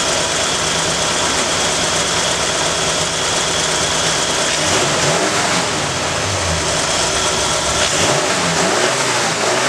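1967 Ford Galaxie's carbureted 289 V8 idling steadily, then, from about five seconds in, revved several times, its pitch rising and falling with each blip of the throttle.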